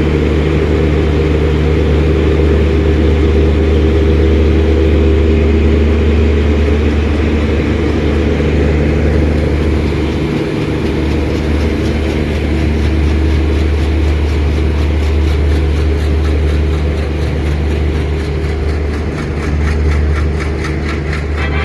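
ALCO diesel locomotive's engine running with a loud, steady deep drone as the train pulls out. From about halfway through, a faint regular ticking rhythm runs over it.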